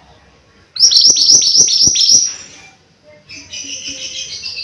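Mantenan gunung songbird singing: a loud run of about seven quick, falling whistled notes, then after a short pause a softer, rapid chattering phrase.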